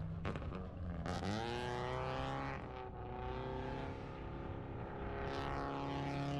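Drift car's engine revving: the revs climb about a second in, then hold high and fairly steady.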